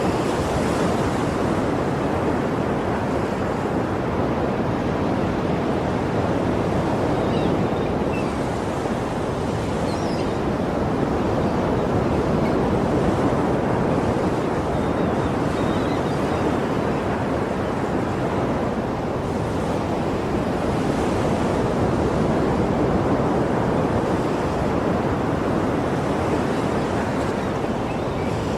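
Sea surf washing continuously on a shore, a dense rushing noise that swells and eases slowly in level.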